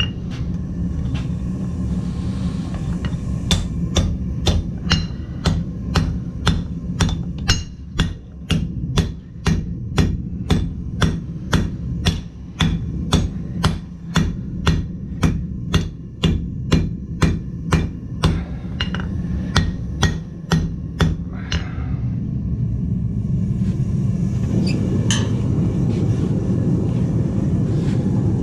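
Blacksmith's hammer striking hot metal on an anvil in an even rhythm, about two blows a second, stopping after about twenty seconds. Under the blows runs a steady low rushing noise that grows louder once the hammering stops.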